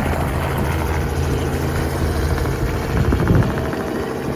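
Helicopter flying low and close, its rotor beating steadily over the engine's drone.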